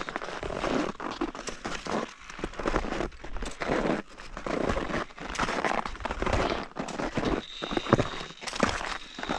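Scraping, crunching steps on icy snow, roughly one a second, from climbing uphill on touring skis.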